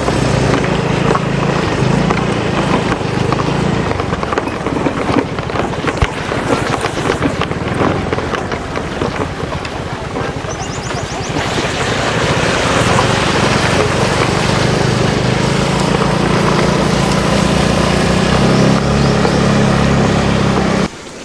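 Motorbike engine running while riding, with wind rushing over the microphone; the engine eases off about halfway through and picks up again, then the sound cuts off abruptly near the end.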